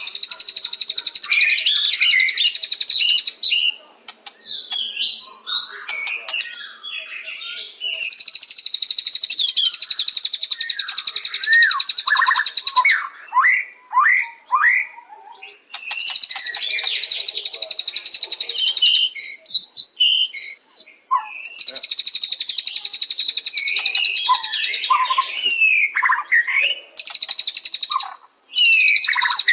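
White-rumped shama (murai batu) singing: five long stretches of a rapid, high trill, each lasting three to five seconds, alternating with varied whistled phrases and quick falling glides.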